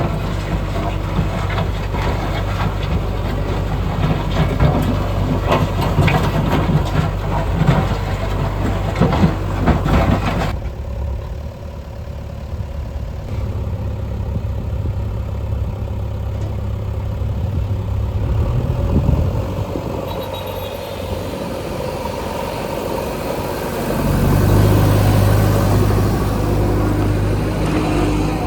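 Heavy diesel construction machinery running. For about the first ten seconds engine noise is mixed with clattering and knocking. After an abrupt change it becomes a steadier engine running, with its low hum growing louder near the end.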